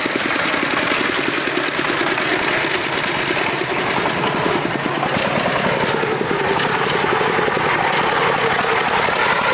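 Farm truck engine running steadily with a fast, even chugging pulse.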